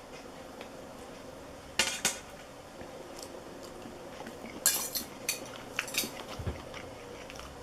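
Cutlery clinking against a plate while a piece of roast turkey is taken to taste: one sharp clink about two seconds in, then a quick run of clinks and taps around the middle.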